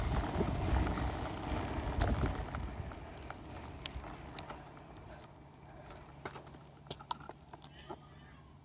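Bicycle riding noise heard from a phone taped to the handlebars: wind and road rumble that dies down over the first few seconds, with scattered small rattles and clicks from the bike and its mount.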